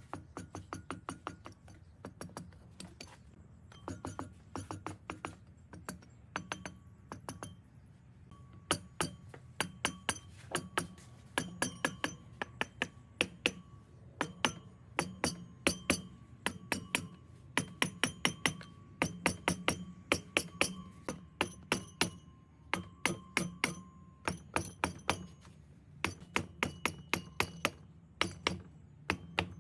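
Metal being tapped with a small hammer: quick runs of sharp, ringing metallic taps, several a second, with short pauses between runs and a steady low hum underneath.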